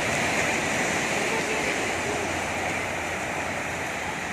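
Sea surf washing onto the beach: a steady rush of breaking waves, with faint voices far off in the background.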